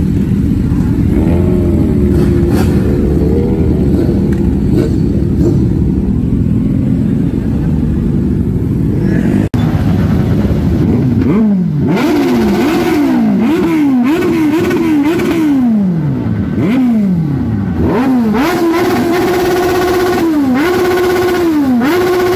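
Large-displacement motorcycle engines in a dense, mixed rumble, then, after an abrupt cut about halfway, throttle revving: engine speed shoots up and falls away over and over, roughly once a second.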